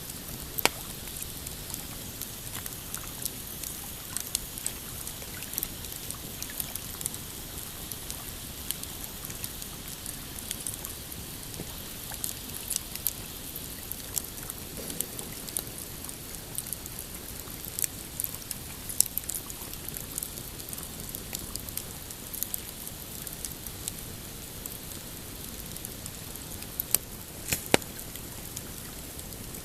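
Pine campfire crackling and popping, with sharp snaps throughout and a few louder pops, the loudest twice near the end, over a steady wash of small waves lapping on a rocky shore.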